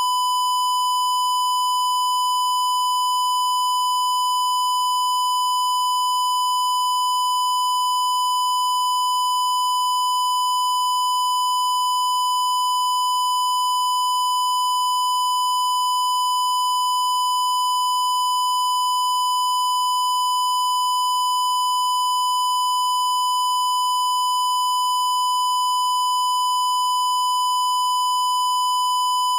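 A single unbroken high-pitched electronic beep tone, held steady at one pitch, with a buzzy edge from fainter higher overtones.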